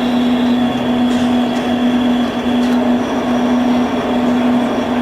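Machine-like sound-art playback: a steady low hum that breaks off briefly about every 0.8 seconds, with a faint high whine over a rumbling haze, like a train or a conveyor belt.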